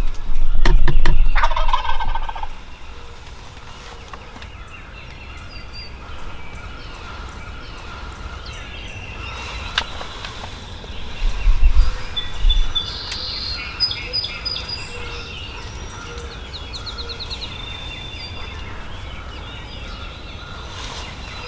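Wild turkey gobbler gobbling once, a loud rattling call about a second in. Songbirds chirp and trill for the rest of the stretch.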